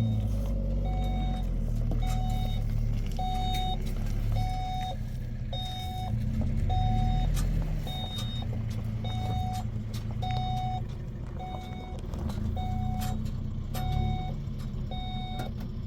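Motor vehicle engine running with a low rumble while an electronic warning beeper sounds short, even beeps, a little under two a second. The rumble eases about halfway through.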